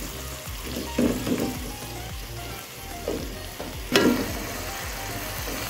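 Onions and tomatoes sizzling in hot oil in an aluminium pot while a spatula stirs and scrapes through them, with a sharp knock about four seconds in.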